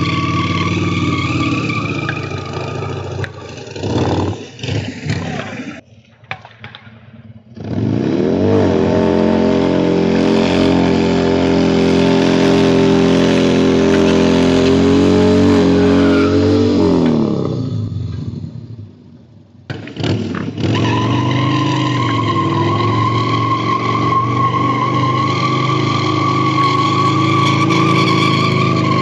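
Motorcycle engine being ridden hard: the revs climb sharply about eight seconds in, hold high for several seconds, then fall away. The sound cuts off abruptly twice.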